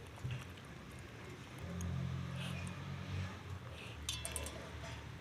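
A Japanese spitz chewing pieces of fruit, heard as scattered short crunchy clicks, with a cluster near the end. A low rumble runs through the middle.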